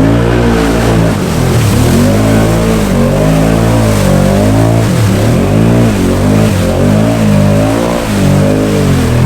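Can-Am Outlander 650 XMR ATV's V-twin engine, fitted with an HMF Titan QS exhaust, revving up and down over and over as it pushes through thick mud.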